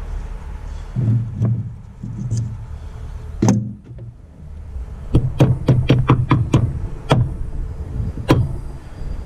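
Sharp metal-on-metal taps while a snap ring is worked into the groove of a side by side's wheel bearing housing: a single strike, then a quick run of about eight taps, and one last tap near the end.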